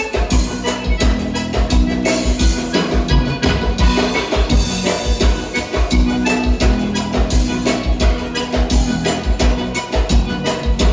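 Live gaúcho dance band playing an instrumental bugio: accordion over bass and drum kit, with a steady, regular beat.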